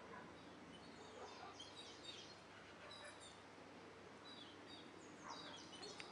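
Faint, scattered high chirps and short twittering calls of small birds over a steady outdoor hiss, coming in small clusters about a second in, around two seconds and again near five seconds.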